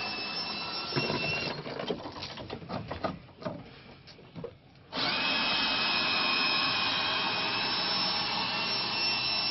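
Power screw gun (drill/driver) running with a steady whine, stopping about a second and a half in. After a few seconds of scattered clicks and knocks it runs again steadily from about five seconds in.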